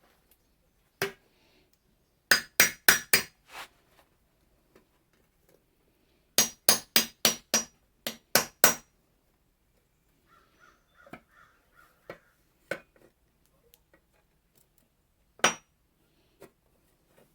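Hammer peening the steel edge of an Austrian scythe blade: sharp ringing metallic blows in quick runs of about four a second, first five and then about nine, with single strikes between the runs.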